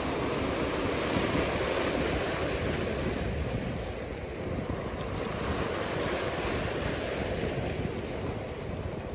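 Ocean surf breaking and washing in a steady rush, with wind buffeting the microphone. It eases slightly about halfway through.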